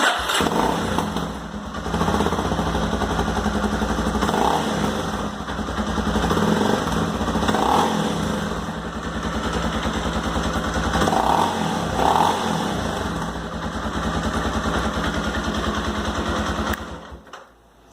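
Honda XR 250 Tornado's single-cylinder four-stroke engine running through its stock exhaust and revved up several times, then shut off near the end. Its exhaust note is made louder by a hole drilled in the catalytic converter, and it is a bit loud.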